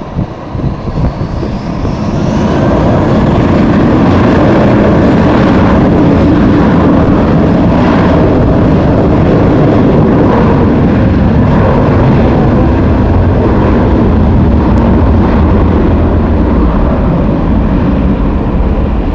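Jet airliner's engines heard as a loud, steady roar that builds about two seconds in and holds, with a faint rising whine as it comes up to power.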